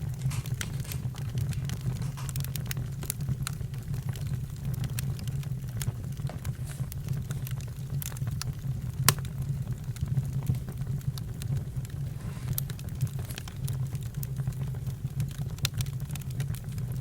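Campfire crackling: scattered sharp pops and snaps over a steady low rumble, with one louder pop about nine seconds in.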